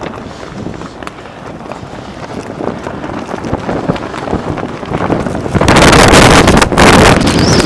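Blizzard wind buffeting the microphone, building gradually and then blasting into a very loud, rough rush of gusts about two-thirds of the way through, broken by brief dips.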